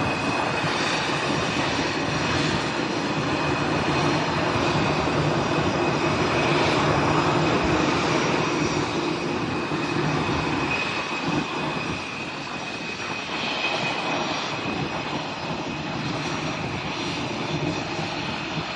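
Airliner engines running loud and close: a broad roar with a steady high whine and low steady hum, easing slightly in the second half.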